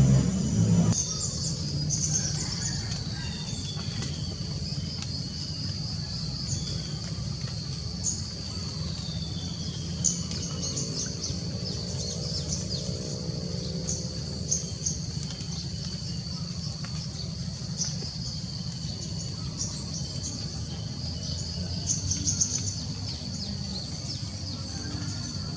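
Countryside ambience: a steady high insect trill with scattered bird chirps and a few falling whistled calls, over a steady low hum. A louder low rumble at the very start cuts off about a second in.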